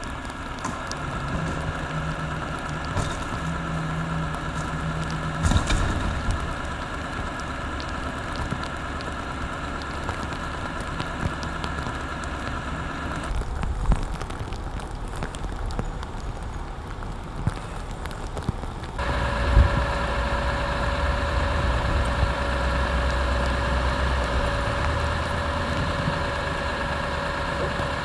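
Heavy recovery truck's diesel engine idling with a steady whine over it, broken by a few knocks. The sound changes abruptly twice, about halfway and about two-thirds of the way through.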